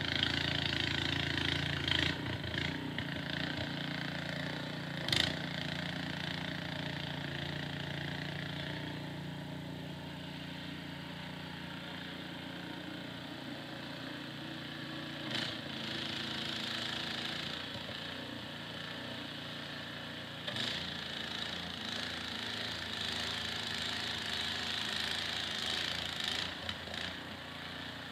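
Snowblower's small gasoline engine running steadily, with a hiss above it and a few sharp knocks along the way.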